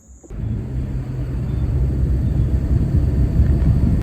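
Car on the move: a steady low engine and road rumble with a low drone, starting suddenly about a third of a second in.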